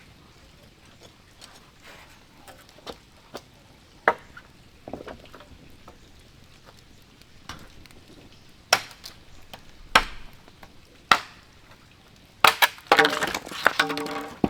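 Wood being chopped with a blade, in sharp single blows: a few scattered strikes, then three about a second apart and a quick double stroke. Near the end a short pitched call or voice is heard.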